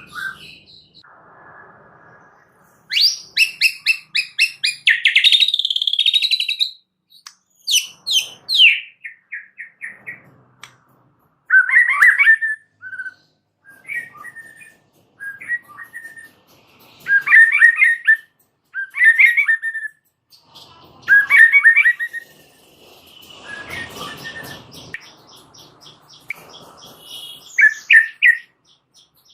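White-rumped shama singing in bursts of varied phrases: a long, rapid trill about three seconds in, then short, quick whistled phrases every second or two with brief pauses between them.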